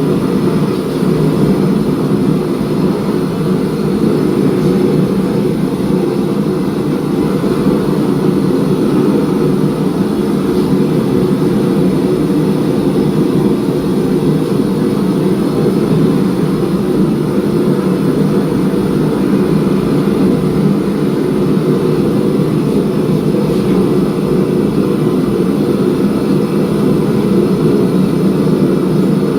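Forge running with a steady, unbroken rushing noise while the steel stack heats for forge welding.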